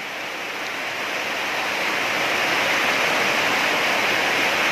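Heavy rain pouring down, a steady rush of falling water that grows louder over the first two seconds and then holds steady.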